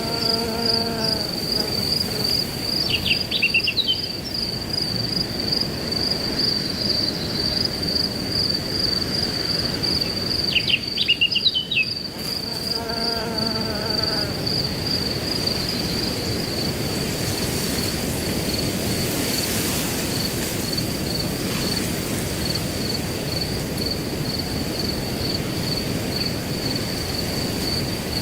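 Crickets chirping in a steady, fast pulse over wind rustling through grass. Brief bird calls come in a few times, near the start, around 3 seconds in and again around 11 to 14 seconds in.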